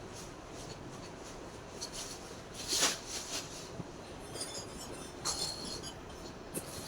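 Sheet tin being handled and worked for a stove, with faint scattered clinks, one sharper metallic clink about three seconds in, and a short thin scrape with a high ring a little later.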